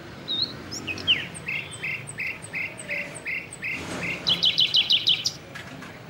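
A bird calling: a steady series of short repeated chirps, about three a second, breaking into a faster, louder trill of higher notes near the end.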